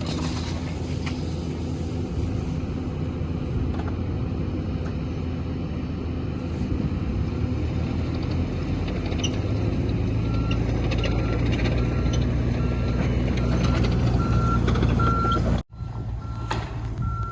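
Heavy diesel machinery running steadily at a boring job site. From about ten seconds in, a backup alarm beeps a little faster than once a second as a machine reverses. The sound briefly drops out near the end.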